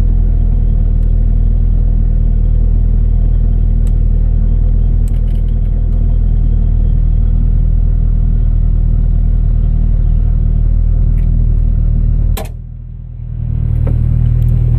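1988 Ford Ranger's 2.3-litre four-cylinder engine idling steadily. A sharp click comes near the end, followed by a brief drop in the running sound before it returns.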